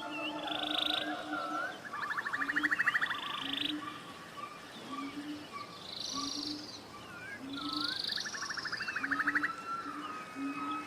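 Forest birdsong: several birds trade fast buzzy trills, one about 2 seconds in and another about 8 seconds in, along with whistles and chirps. Under them a short low call repeats about once a second.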